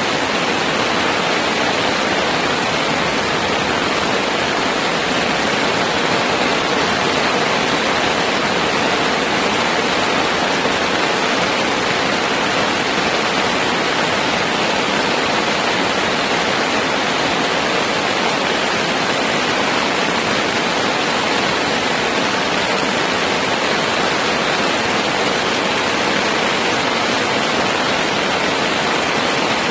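Heavy rain pouring down in woodland, heard from under a tarp shelter: a loud, steady hiss of downpour with no breaks.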